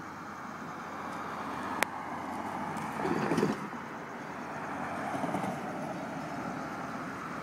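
Steady vehicle rumble that slowly grows louder, with one sharp click a little under two seconds in and a brief louder rush about three seconds in.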